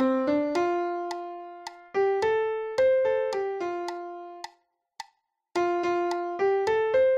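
Piano sound playing one voice line of a choral arrangement, one note at a time, with a full stop of about a second midway. It is a part-learning track for rehearsing the song.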